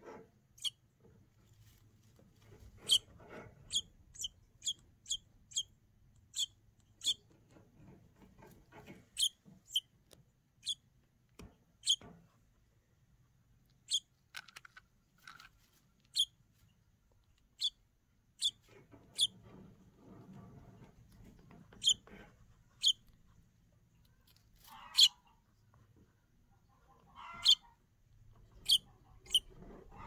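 Fledgling songbird giving short, high-pitched peeps, repeated irregularly about once a second, with faint rustling between.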